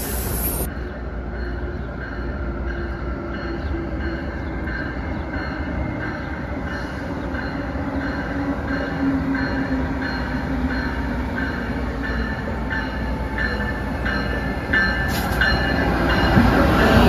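Amtrak ACS-64 electric locomotive hauling a passenger train into the station, a steady rumble of wheels on rail that grows louder as the locomotive draws alongside.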